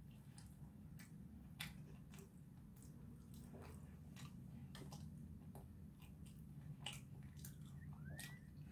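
Faint chewing and scattered soft mouth clicks of a person eating fries, over a low steady hum of room tone.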